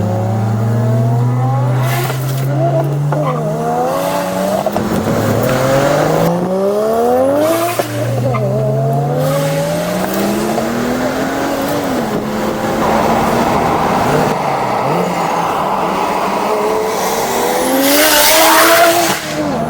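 Single-turbo BMW 335i's inline-six engine pulling hard under acceleration, its pitch climbing through each gear and dropping at each shift, several times over. Near the end comes a loud hissing burst.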